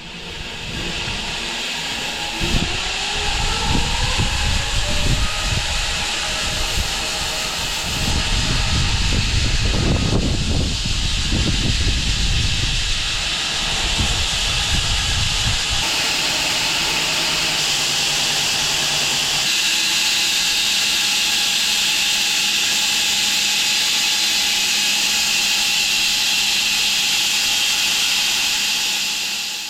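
Home-built 6 ft wide bandsaw mill starting up: a rising whine over the first few seconds as it spins up, then a loud, steady hissing run with a heavy low rumble in the first half that settles to a steadier sound. The sound cuts off suddenly at the end.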